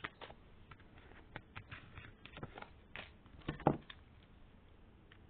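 Tarot cards being handled on a table: scattered light clicks and taps, with a louder knock about three and a half seconds in.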